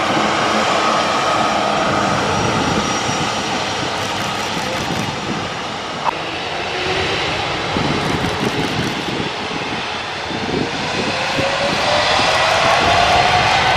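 Jet engines of a Boeing 777-300 running as the airliner taxis, a steady rush with turbine whine. Over the second half a whine rises steadily in pitch.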